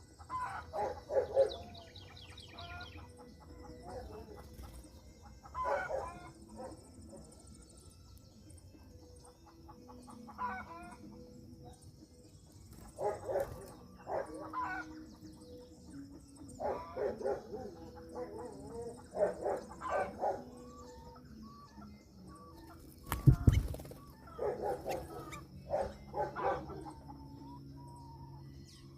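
Bird calls in short bouts every few seconds, with one sharp loud thump about two-thirds of the way through and a faint steady high tone underneath.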